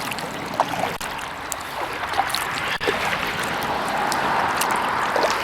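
Kayak paddle strokes through pond water, with water splashing and trickling off the blades.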